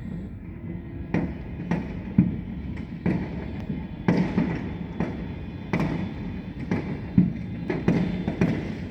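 Fireworks going off in a rapid, irregular string of sharp bangs, roughly one every half second to a second, over a steady low background rumble.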